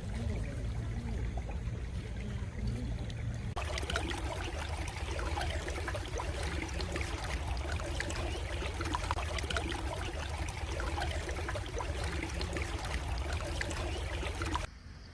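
Stream water trickling and splashing steadily. About three and a half seconds in it turns abruptly louder and brighter, and it drops off sharply near the end, as if one recording is spliced to another.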